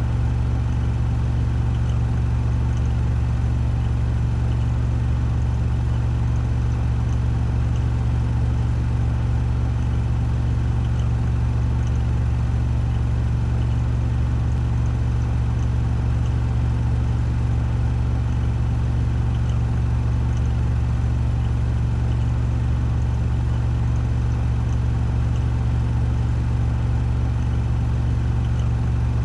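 Washing machine drum spinning on a 1400 rpm spin cycle: a steady low hum with faint scattered ticks.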